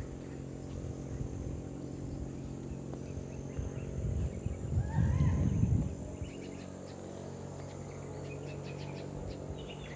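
Outdoor background noise with a steady low hum, a louder low rumble about five seconds in, and a few faint chirps.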